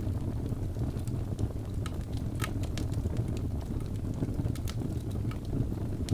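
Wood logs burning in a fireplace: a steady low rumble of flame with sharp, irregular crackles and pops from the logs, a few each second.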